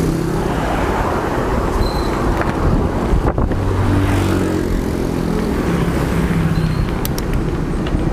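Road traffic going past: motor vehicle engines running over a steady rush of road noise, one engine note rising in pitch around the middle.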